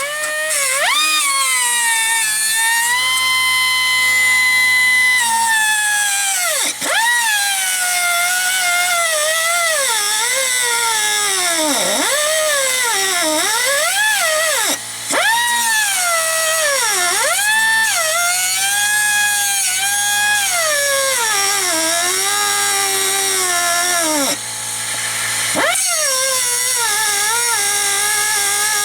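High-speed air-powered cutting tool working at a seized exhaust manifold stud. Its high whine holds steady at first, then repeatedly sags deep in pitch as it bogs down under load and spins back up, with a couple of brief stops.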